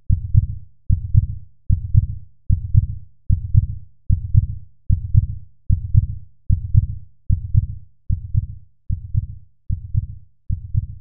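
Deep, evenly spaced thumping beat, about five beats every four seconds, each beat a quick double thump that dies away before the next.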